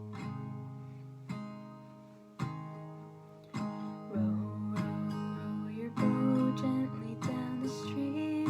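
Acoustic guitar playing strummed chords as a song intro. At first single strums about a second apart are left to ring, then a steadier strumming pattern starts about three and a half seconds in.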